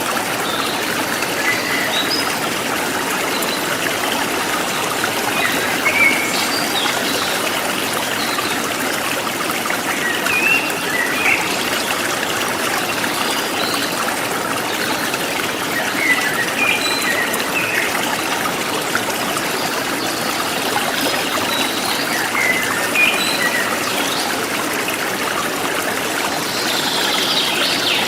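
Stream water flowing and trickling steadily, with small birds giving short chirps every few seconds over it.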